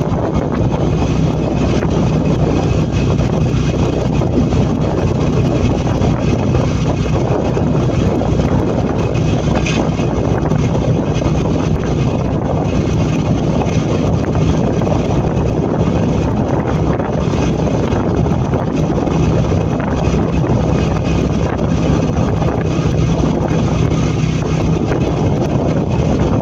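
Motorcycle engine running steadily at an even cruising speed, over a steady rush of wind and road noise.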